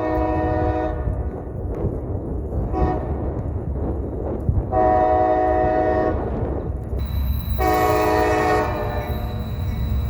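Diesel freight locomotive's air horn sounding a long blast, a short one, then two more long blasts, over the low rumble of the train.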